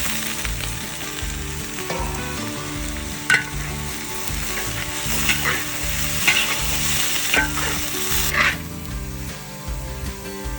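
Chicken gizzards deep-frying in hot oil: a dense, steady sizzle broken by a few sharp clicks of a utensil stirring them. The loud sizzle drops away about eight seconds in.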